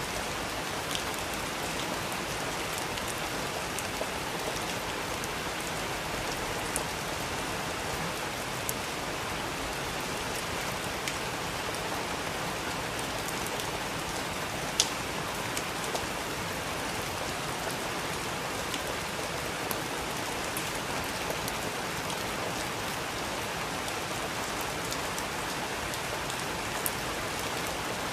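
Steady rain falling, an even hiss with scattered sharper drops ticking on a surface, one louder drip about halfway through.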